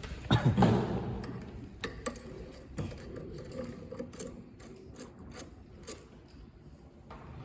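Sparse light clicks and taps from hands adjusting parts of a soldering machine, over a low steady hum, with a brief voice in the first second.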